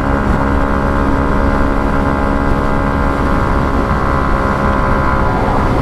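2017 Yamaha MT-125's single-cylinder four-stroke engine running at a steady speed on the road, with wind rush.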